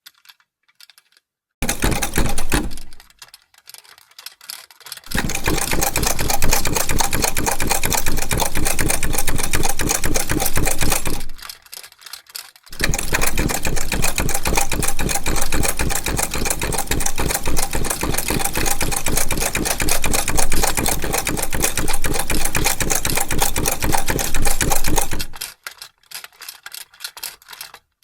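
Vintage sewing machine stitching in runs of rapid, even needle strokes: a short burst near the start, then two long runs separated by a brief pause, with light clicks in the gaps.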